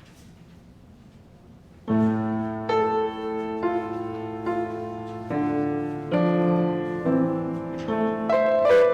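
Faint hiss, then about two seconds in a piano starts playing slow chords, a new chord struck roughly every second.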